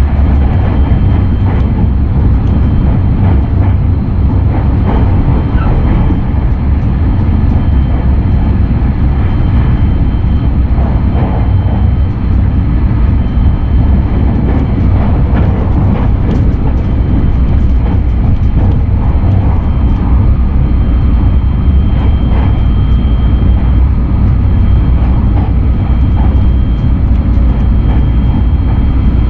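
Steady rumble of a JR West 683-series limited express electric train running at speed, heard from inside the passenger cabin: wheels on the rails, with a faint steady high tone and scattered light clicks.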